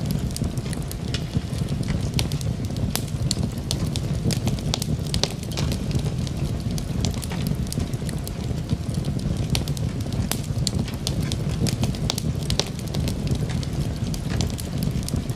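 Wood fire burning in a fireplace, with a steady low rumble of the flames and frequent, irregular sharp crackles and pops.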